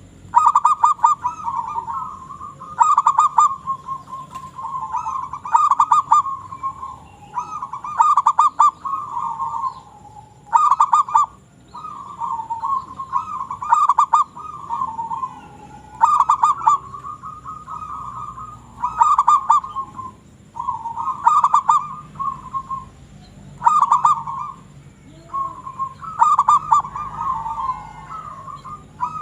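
Zebra dove (perkutut, a local strain) in full song: rippling coo phrases made of rapid pulses, repeated about every two to three seconds.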